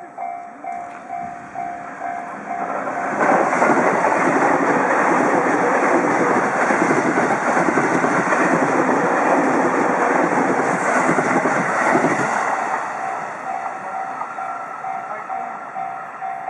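Japanese level-crossing alarm bell ringing about twice a second. A few seconds in, an electric train passing at speed drowns it out for about nine seconds with loud, steady running noise. The bell comes through again as the train noise dies away near the end.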